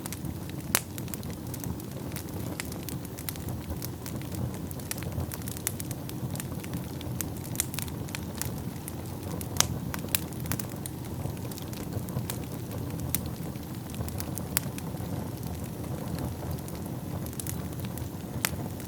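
Wood fire burning in a fireplace: a steady low rumble of flames with frequent sharp, irregular crackles and pops of burning logs.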